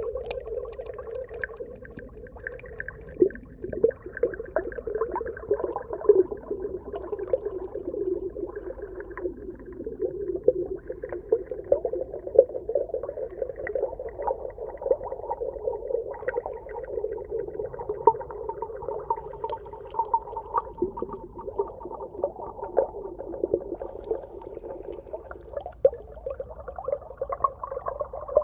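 Underwater ambience: a steady muffled hum sitting in a low-middle band, with many small sharp clicks and crackles scattered through it.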